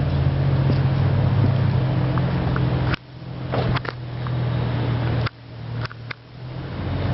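1928 Ford Model A truck's four-cylinder engine idling with a steady low hum. A few clicks come about three and five seconds in, where the sound suddenly drops away and builds back.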